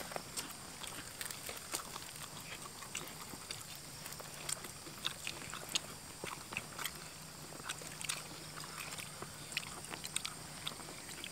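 Several people eating with their hands: chewing and biting crispy flour-battered fried tilapia, with many small irregular clicks and mouth smacks.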